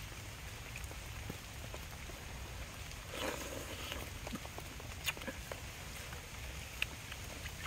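Steady light rain, with a slurp from a metal soup ladle about three seconds in and a few small sharp clicks later on.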